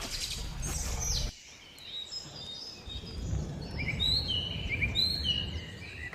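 Small birds chirping outdoors, a series of short, quick, falling chirps over a low background rumble that cuts off abruptly about a second in.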